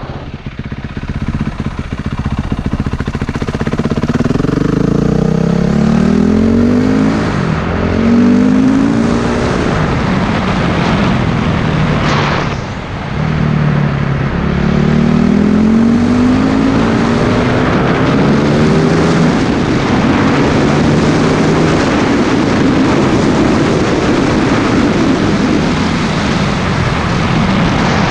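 Motorcycle engine accelerating through the gears: its pitch climbs and drops back again and again as it shifts up, with a brief easing off about halfway through, over steady wind rush.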